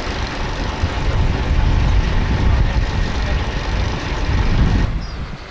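A heavy diesel vehicle's engine running steadily with a low rumble. It drops away suddenly near the end.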